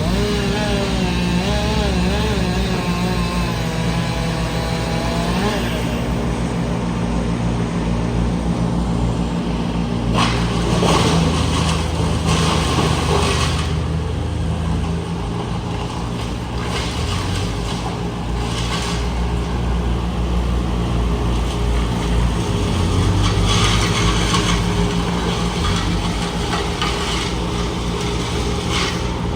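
Heavy machinery engine running steadily at a tree-removal job, rising in surges twice. For the first few seconds a higher whine wavers in pitch over it.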